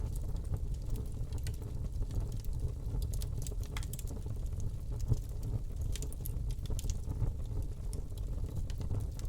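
Wood fire burning in a fireplace: a steady low rumble of flame with irregular small crackles and pops scattered throughout, one sharper pop about five seconds in.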